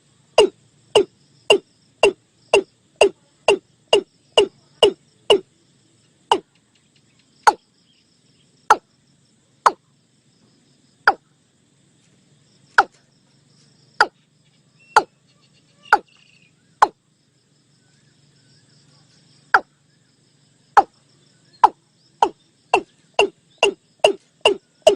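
Watercock calling: a long series of short, hollow 'kok' notes, each dropping quickly in pitch. They come about two a second at first, space out in the middle and quicken again near the end. Faint insects buzz behind.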